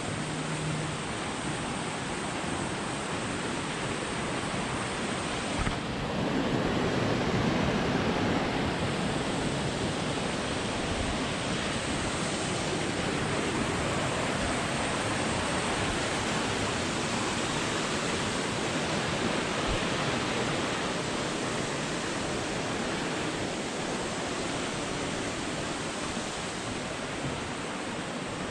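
Mountain stream rushing over rocks in a steep valley: a steady rush of water that grows a little louder about six seconds in.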